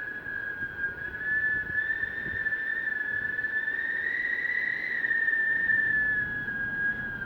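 Wind whistling through the gap of an intercom entrance door: a steady high whistle that climbs slightly in pitch and gets louder about the middle, then settles back, over a low rushing of wind.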